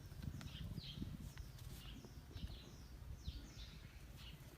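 Small birds chirping: a faint, steady string of short calls that fall in pitch, about two a second, over a low outdoor rumble.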